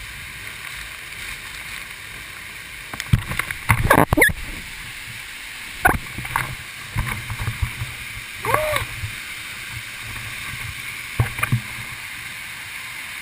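Steady rush of waterfall water, with irregular knocks and bumps on top, the loudest cluster about three to four and a half seconds in.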